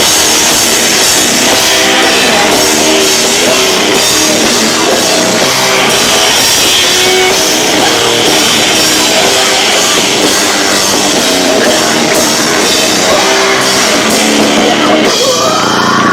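Live rock band playing loud with distorted electric guitar, bass and drums, recorded on a camcorder microphone that is overloaded by the volume. Near the end the drums drop out, leaving ringing guitar.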